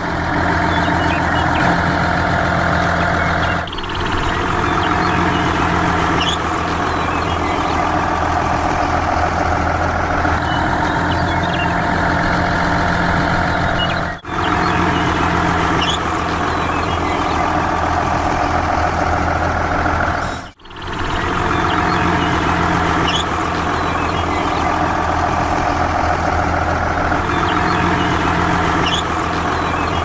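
Heavy truck engine running steadily with a low, even drone. The sound briefly drops out about 4, 14 and 21 seconds in.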